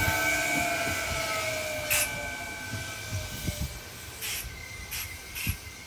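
Kintetsu electric commuter train running away from the listener. Its motor whine of several tones falls slightly in pitch and fades out over the first two or three seconds, while the wheel rumble on the rails dies away. A few short, sharp high sounds come later.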